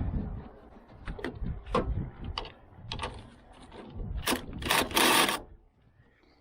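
Metal tools and suspension parts clinking and knocking irregularly as they are handled, with a harsher scraping noise lasting under a second near the end.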